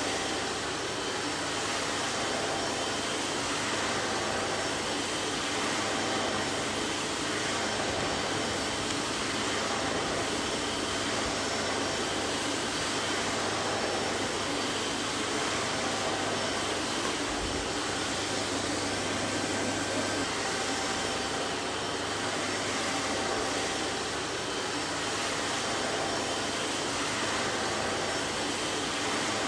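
Vacuum cleaner running steadily: an even rushing noise of the motor and airflow with a low hum, unchanging in level.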